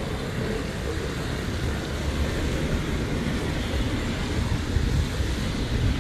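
Strong typhoon wind buffeting the microphone: a steady, gusty low rumble with a noisy hiss over it.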